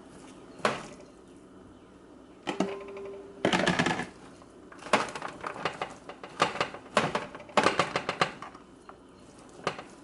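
Clatter and knocks on a sheet pan as sliced chicken is laid out and spread over it, coming in bursts with short pauses between.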